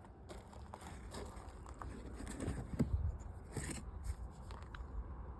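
Faint handling noise: scattered small clicks and scrapes over a low background rumble, busiest in the middle.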